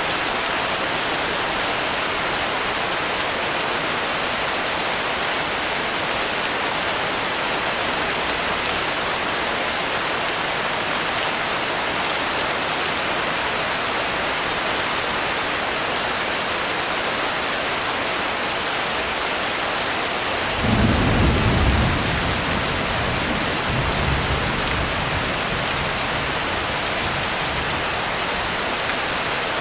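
Steady heavy rain hiss, with a clap of thunder rumbling low about two-thirds of the way in and a weaker second rumble a couple of seconds later.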